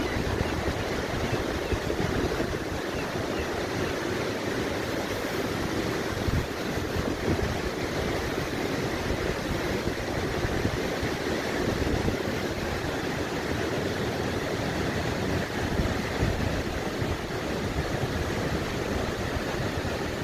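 Steady rush of sea surf and strong wind, with gusts buffeting the microphone in the low end.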